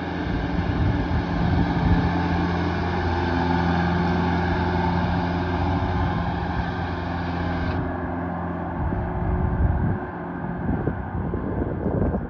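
Tractor engine running steadily under work. About nine seconds in, the steady engine tone gives way to rougher, uneven noise.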